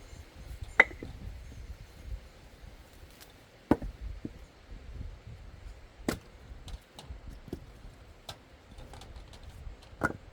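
Axe splitting firewood: four sharp, hard strikes a few seconds apart.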